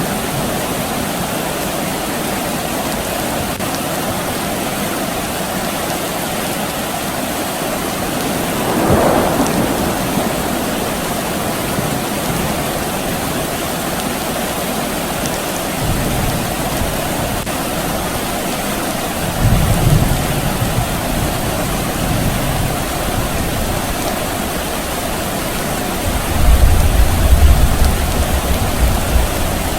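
Steady rain falling, with distant thunder rumbling low several times in the second half: once around sixteen seconds in, again around twenty seconds, and loudest near the end. A brief swell rises and fades about nine seconds in.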